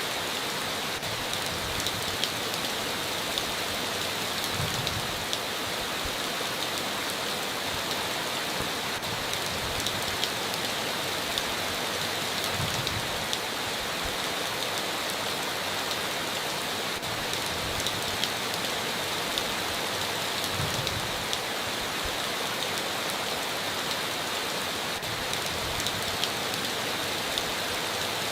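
Steady heavy rain on a tin roof, with individual drops striking in sharp ticks all through.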